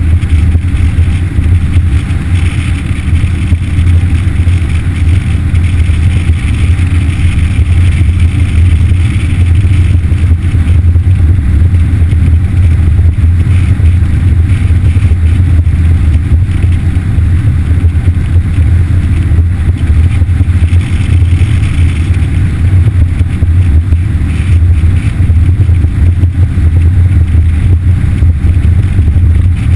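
Yamaha F60 four-stroke outboard motor running steadily, driving a boat under way with a constant low drone and no change in pitch.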